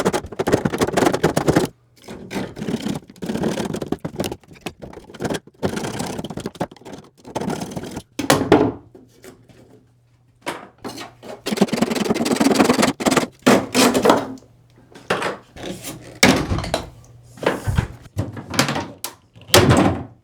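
Irregular thunks, knocks and scraping as an old plumbing pipe is cut and worked loose under the floor, with no steady rhythm and short pauses between the bursts.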